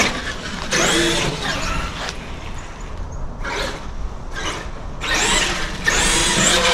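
Electric RC monster truck (Traxxas X-Maxx) motor whining in several bursts as the truck is driven, the pitch rising and falling with the throttle.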